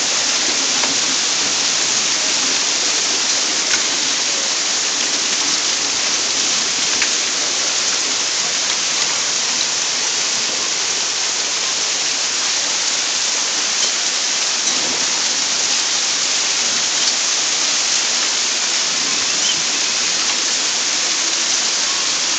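Heavy downpour of rain mixed with hail, a dense, steady hiss with a few sharp ticks from hailstones.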